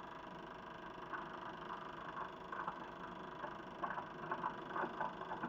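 Super 8 sound film projector running, with a steady mechanical hum and an irregular run of short knocks from the film's soundtrack starting about a second in.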